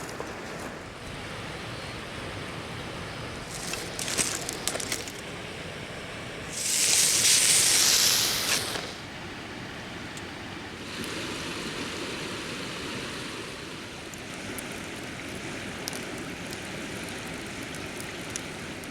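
River water flowing steadily, with a short cluster of clicks and knocks about four seconds in and a loud hiss lasting about two seconds starting around seven seconds in.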